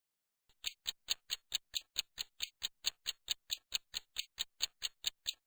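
Clock-like ticking sound effect, a countdown timer running at a quick steady pace of about five ticks a second. It starts about half a second in.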